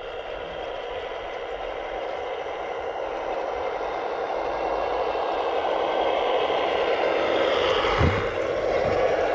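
Radio-controlled scale construction machine running, a steady mechanical whine that grows slowly louder, with a short low thump about eight seconds in.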